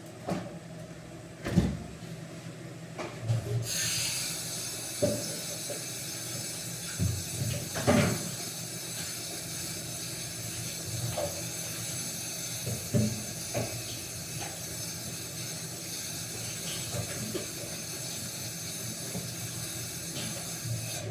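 A steady hiss starts suddenly about four seconds in and carries on, with scattered knocks and clacks over it.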